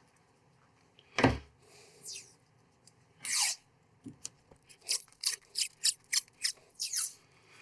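Sticky tape being pulled off the roll and torn in short, sharp rasps, about two a second in the second half, to bind a worn-out paint brush. A single knock about a second in.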